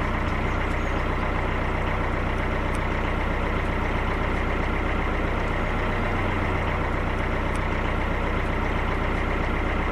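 Narrowboat's diesel engine running at a steady speed inside a canal tunnel.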